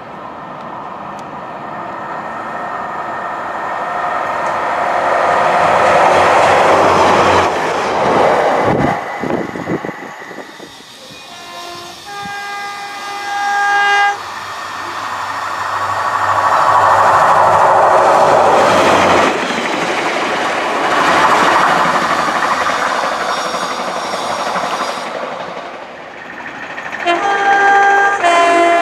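Class 142 Pacer diesel multiple unit passing at speed, its engine and wheels swelling to a loud rush and fading as it goes by, several times. A two-tone horn sounds about twelve seconds in and again near the end, the higher note followed by the lower.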